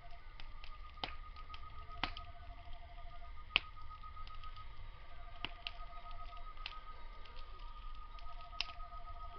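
Wood fire crackling, with sharp irregular pops, the loudest about three and a half seconds in. Behind it, night insects: one steady high trill, and another repeating a pulsed trill of about a second every two and a half seconds.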